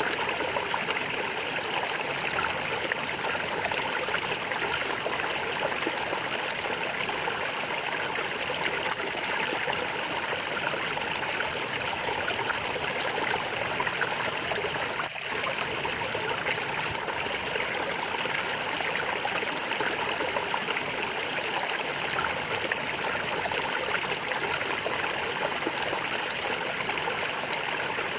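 Flowing stream water gurgling steadily, with a momentary dip about halfway through.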